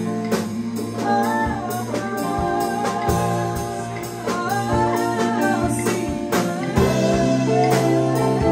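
Live band playing: held chords, a melody line that bends and slides in pitch, and drum hits on a steady beat about twice a second.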